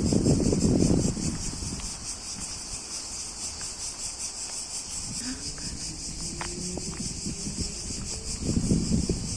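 Crickets chirring steadily in a fast, pulsing rhythm. Wind gusts buffet the microphone at the start and again near the end, and a faint rising hum passes about halfway through.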